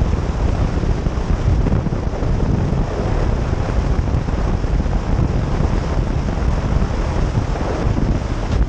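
Heavy wind buffeting the microphone aboard a powerboat under way, with water rushing past the hull, steady throughout.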